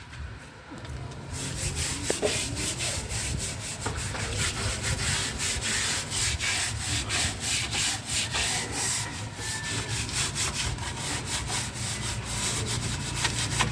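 Brake parts being scrubbed clean with a brush, rapid back-and-forth strokes starting about a second in.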